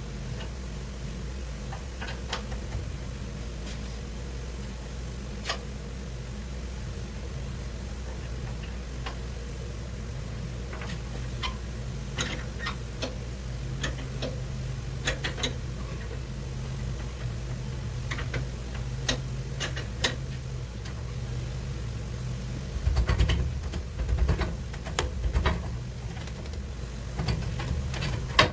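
Restored Powermatic 65 cabinet table saw running with a steady motor hum, with scattered light clicks and a few louder thumps near the end.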